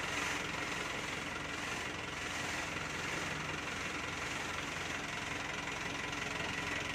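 Dump truck's diesel engine running steadily while its hydraulic tipper works the loaded bed, with a steady high whine over the engine hum.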